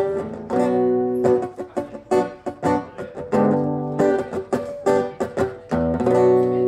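Guitar strummed in a steady rhythm, its chords ringing between strokes.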